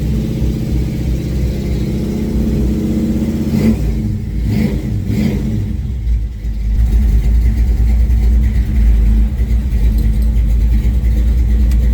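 Old Chevrolet engine running after a cold start, blipped a couple of times about four to five seconds in. From about seven seconds it is held at a higher, louder speed.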